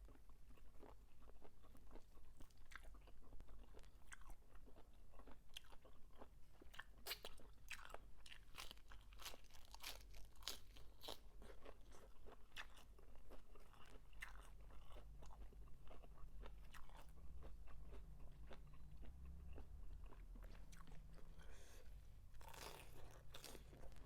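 Close-up chewing and crunching of a crunchy squid salad with raw herbs: a steady run of small, sharp crunches, thickest in the middle stretch.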